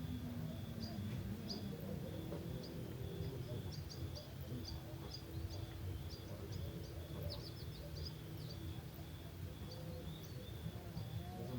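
Crickets chirping steadily, about two pulses a second, with small birds giving short, sharp chirps scattered through, in quick runs about seven seconds in, over a low background rumble.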